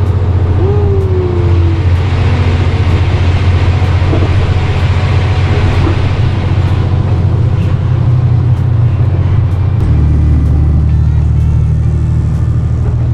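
Train running, heard as a steady low drone with rumbling noise; the drone steps down in pitch about ten seconds in.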